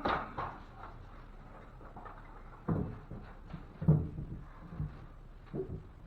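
Irregular wooden knocks and bumps as a 2x4 backing board is handled and fitted into a drywall ceiling opening, the loudest a little under four seconds in.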